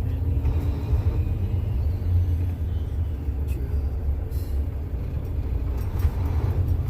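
Semi truck's diesel engine running while driving, a steady low rumble heard inside the cab, with a few faint clicks or rattles.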